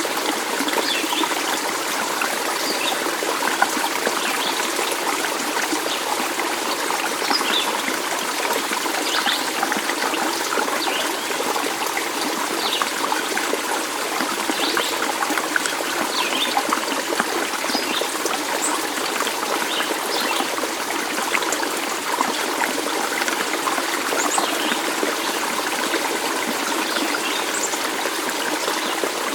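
A small stream of water trickling steadily, with scattered brief high-pitched sounds above the flow.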